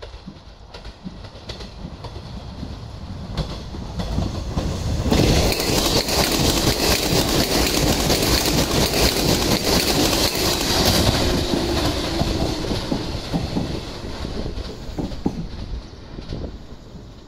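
A JR 381 series 'Yakumo' limited express electric train passing close by: the rush of the train and its wheels on the rails builds over the first five seconds, stays loud for several seconds, then fades as it draws away.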